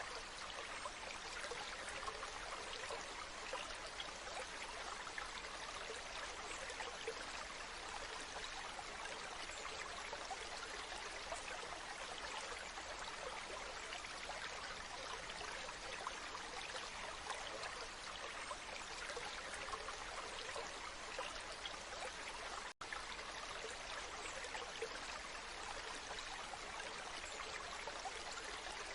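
Waterfall: water rushing and splashing in a steady, even wash. The sound cuts out for an instant about three-quarters of the way through.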